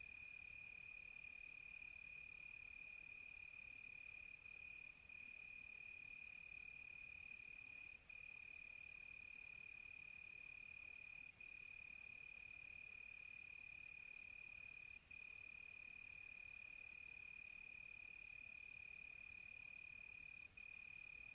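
Crickets trilling faintly in one steady high tone. A second, higher-pitched rapid insect pulsing joins about four seconds in and stops a few seconds before the end.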